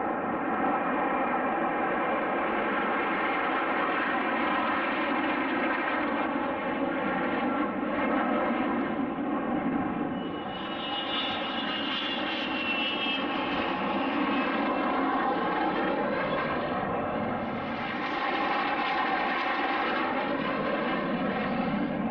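Fixed-wing aircraft engines running steadily with a layered drone of even tones, and a high whine joining in about halfway through.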